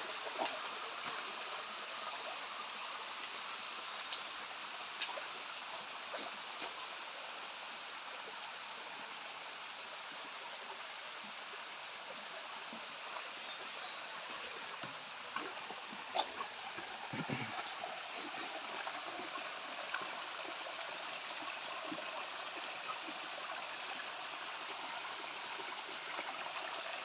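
Small waterfall and stream running over rocks: a steady rush of water, with a few light knocks about two-thirds of the way through.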